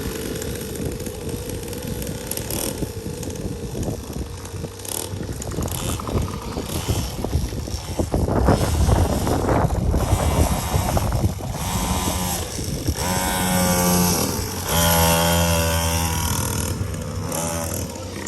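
Small 50cc kids' dirt bike engines buzzing, revving up and easing off as the bikes ride the track.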